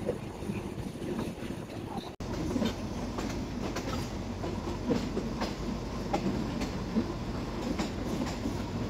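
Passenger train coaches rolling along the track, the wheels clacking in an irregular run of knocks over rail joints and points, heard from an open coach window. The sound drops out briefly about two seconds in.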